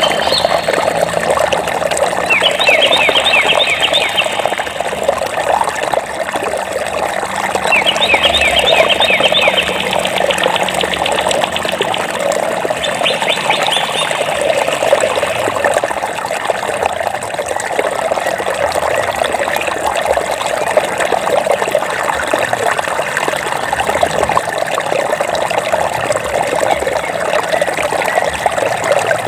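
A stream babbling steadily, with a small bird's rapid trill of quick repeated high notes heard three times in the first half.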